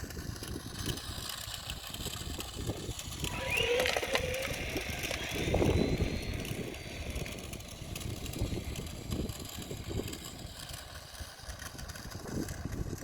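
Small electric RC car motor whining up in pitch about four seconds in, then a thin high whine slowly falling away, over a steady rumble of wind on the microphone.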